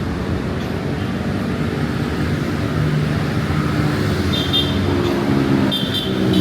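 Road traffic: engines of passing cars and motorbikes running and growing a little louder toward the end, with two brief high-pitched squeaks about four and six seconds in.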